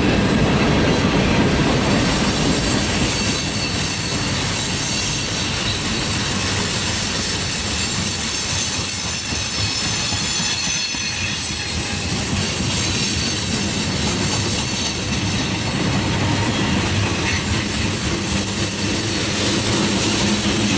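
A train rolling past on the track, a steady wheel-on-rail rumble with a high hiss over it.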